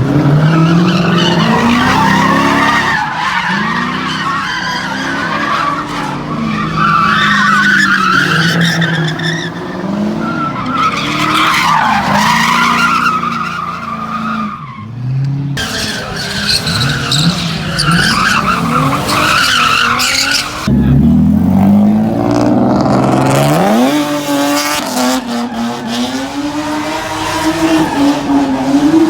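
Car engines revving up and down while tires squeal in long screeches, with one engine revving sharply upward about two-thirds of the way through.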